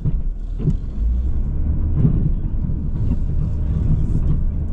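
Engine of a plow vehicle running under load as it pushes snow across gravel: a steady low rumble with a few short knocks and scrapes.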